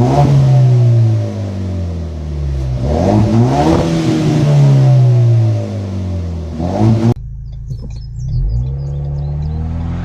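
2021 Ford Ranger's exhaust with the muffler removed and a side exit, the engine revved in repeated rises and falls in pitch. About seven seconds in the sound turns suddenly quieter and duller, with lighter blips over the idle.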